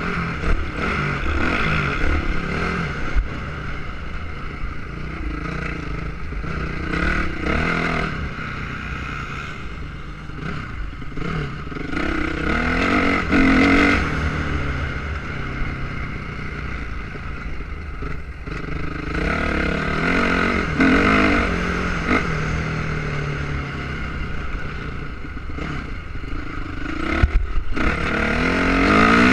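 Motocross motorcycle engine revving hard, its pitch rising and falling again and again as the bike accelerates and backs off, swelling louder several times, over a constant low rumble with a few sharp clatters.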